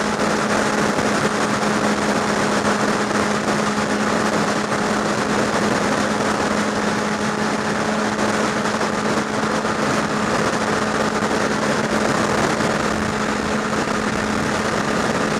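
Motorcycle running at a steady cruise under a heavy rush of wind over the rider's microphone, with a constant engine hum beneath the wind noise.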